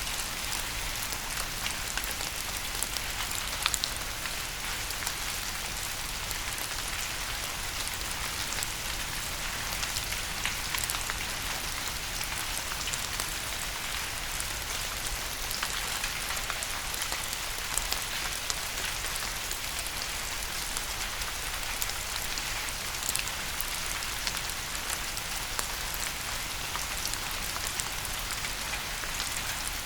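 Steady rain falling on a surface, a continuous hiss with scattered individual drops ticking through it.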